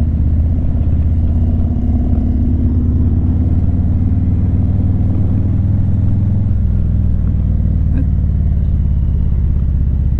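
Harley-Davidson V-twin motorcycle engine running steadily while cruising at low town speed, a low, even engine note.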